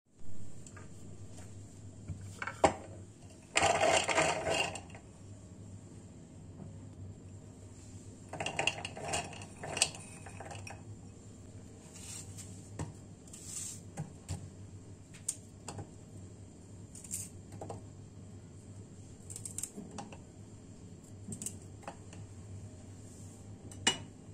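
Kitchen handling sounds: scattered clicks and knocks of utensils and dishes, with two longer noisy spells a few seconds in and again near ten seconds, over a steady low hum.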